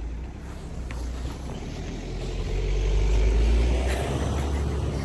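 A road vehicle passing, a low rumble that swells to its loudest a little past the middle and then eases off.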